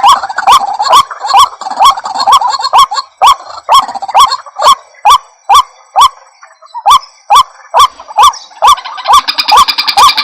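White-breasted waterhens calling: the same short, harsh call repeated about twice a second. Other birds' calls overlap at first, fall away, then crowd in again near the end. This is a lure call used to draw waterhens in.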